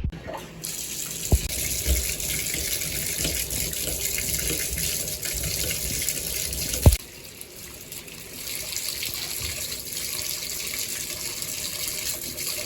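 Bath tap running into a tub, a steady rush of water. About seven seconds in there is a sharp knock, the rush drops away, and a softer steady hiss takes over.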